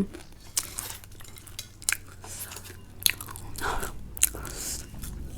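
Someone chewing and crunching crisp snack chips, with irregular sharp crunches between quieter chewing.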